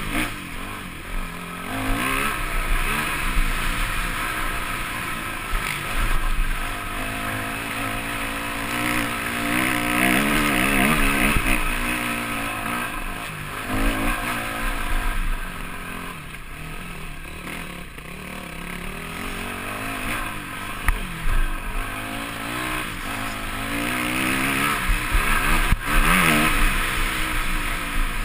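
Motocross bike engine heard from on board, revving up and dropping back over and over through a lap, with wind rushing over the microphone and an occasional sharp knock.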